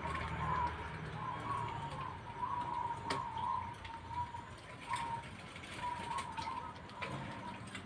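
Zebra dove (perkutut) cooing in repeated short phrases at a steady pitch, with a few sharp clicks between them.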